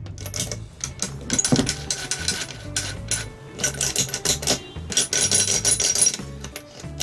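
Metal engine parts clicking and clinking as they are handled and fitted during engine assembly, with repeated sharp metallic taps that ring briefly; background music plays underneath.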